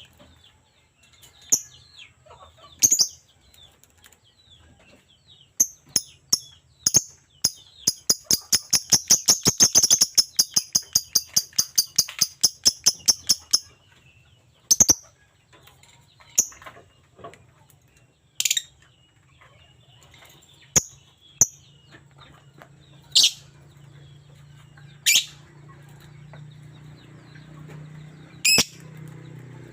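Lovebird calling with sharp, shrill chirps, some single and widely spaced, with a fast run of about five or six a second in the middle. A faint low hum runs under the later chirps.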